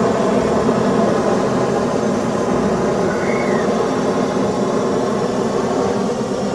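A loud, steady rumbling noise with a faint hum running through it, and one faint bird chirp about halfway through.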